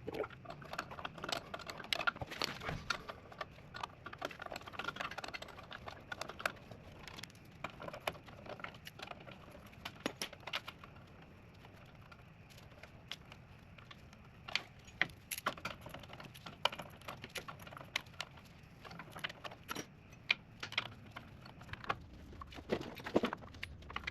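Hand tools and metal brake parts clinking and clicking against each other in an irregular string of light knocks, while a truck's rear drum brake assembly is worked on.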